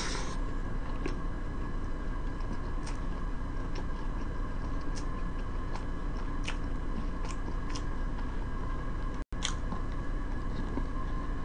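A person chewing a fish sandwich close to the microphone: soft eating sounds with scattered small mouth clicks, over a steady background hum.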